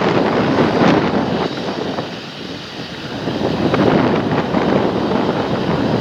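Large farm tractor running under load in a field, with wind buffeting the microphone. The sound dips about two seconds in and swells again around four seconds.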